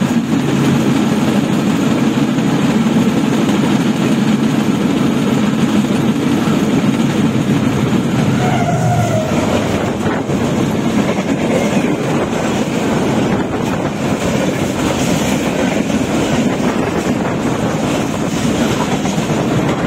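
Diesel-hauled passenger train, led by a GE U40 diesel-electric locomotive, passing close on the adjacent track, heard from a moving railway motor trolley. There is a steady low rumble for about the first nine seconds, then a broad rushing noise with wheel clatter as the coaches go by.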